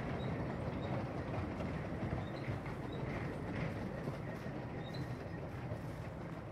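Narrow-gauge steam-hauled goods train rolling away down the line, its wagons rumbling on the track, the sound fading slowly as the train recedes.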